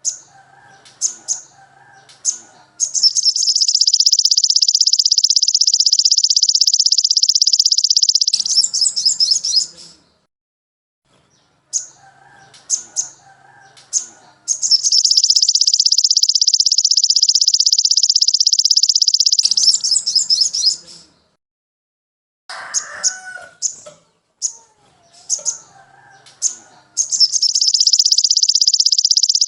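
Songbird song from a tutor recording: a few sharp high chips lead into a long, fast, high trill lasting about five seconds. The phrase comes twice and starts a third time near the end. Fainter lower chirps and calls from other birds sound underneath.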